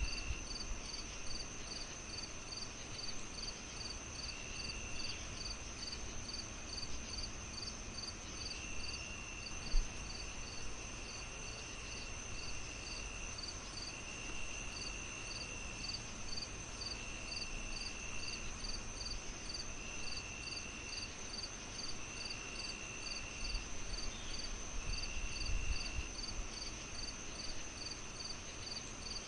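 Crickets chirping in an even rhythm, about two to three chirps a second, over a steady high insect whine, with another insect trilling on and off in bursts of a second or two. Underneath, a low fire crackle with one sharp pop about ten seconds in and a few more pops near the end.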